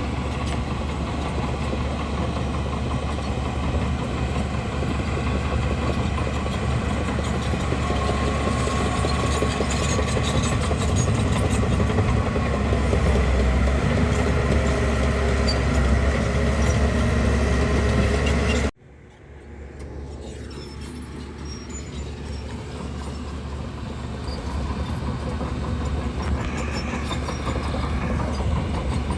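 Bulldozer's diesel engine running steadily under load, with a strong low rumble. About two-thirds of the way through it cuts off abruptly, comes back much quieter and grows louder again.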